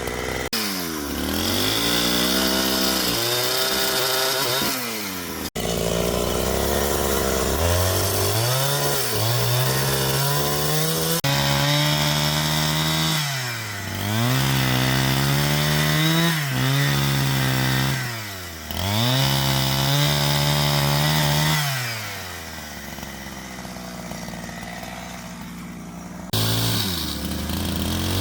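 Two-stroke chainsaw cutting wood. The engine pitch sags as the chain bites into the log and rises again each time it frees up, several times over. It drops to a quieter low run for a few seconds before revving up again near the end.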